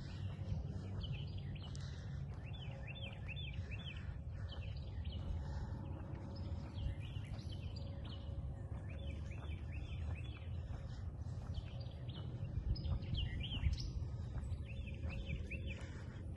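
Birdsong: a small bird sings runs of quick, repeated chirps, twice, over a steady low outdoor rumble.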